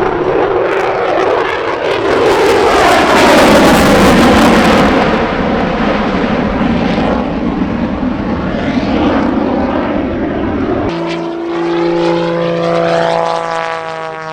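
Propeller aircraft flying past, a loud engine roar that swells to a peak a few seconds in and then eases. After an abrupt cut near the end, another propeller plane passes with its engine note dropping in pitch as it goes by.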